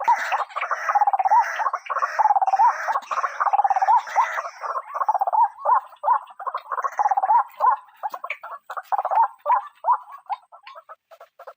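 White-breasted waterhen calling: a dense run of repeated croaking notes, thinning out about halfway through to separate short notes a few per second.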